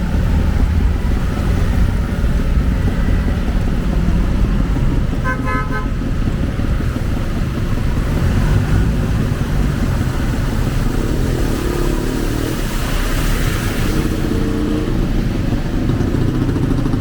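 Street traffic: motor vehicle and motorcycle engines running past over a steady hiss of heavy rain, with one short vehicle horn toot about five seconds in.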